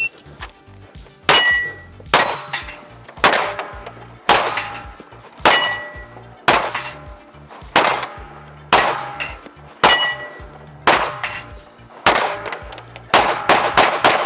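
A string of gunshots at steel targets, roughly one a second, each followed by the ring of a struck steel plate, with a quick run of four shots near the end. This is a timed drill on a steel plate rack and farther steel targets.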